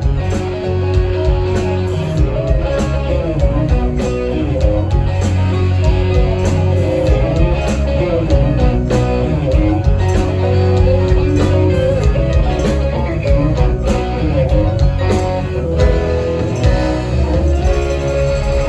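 A live band playing an instrumental passage led by guitar over a steady drum beat and bass.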